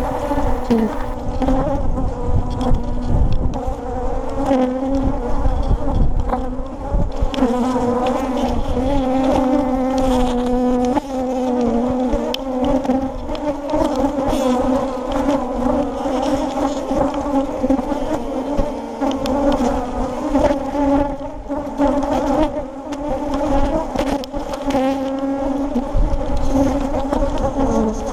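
Honeybees buzzing loudly around an open hive: a steady, dense drone with no break. The bees are agitated by the inspection.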